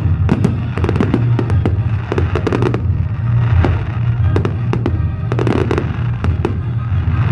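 Fireworks display: many sharp bangs and crackles in quick succession, over music with a steady bass.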